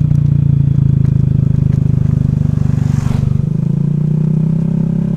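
Honda Vario scooter's single-cylinder engine running steadily under way. About three seconds in there is a brief rush of noise, and just after it the engine note eases a little.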